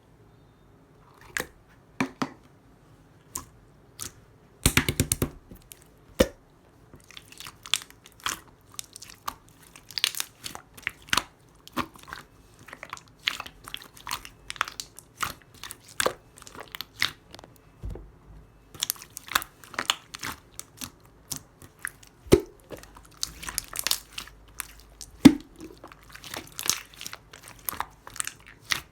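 Clear jelly-textured slime being squished and worked by hand, giving irregular sharp popping and crackling clicks as trapped air bursts, with a dense run of pops about five seconds in.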